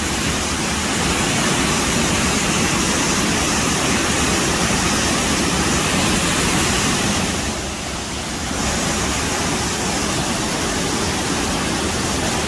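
Waterfall close to the microphone: a loud, steady rush of falling water that dips briefly about eight seconds in.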